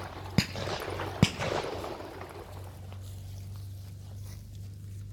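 Two shotgun shots a little under a second apart, each with a short fading echo, over a steady low hum.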